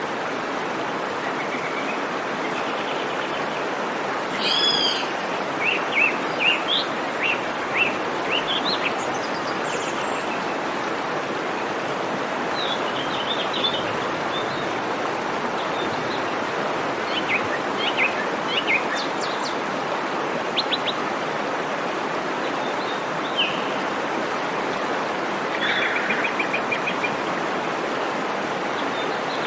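Steady rush of a waterfall's flowing water, with birds chirping over it: a cluster of calls from about four to ten seconds in, more scattered calls through the middle, and a quick trill near the end.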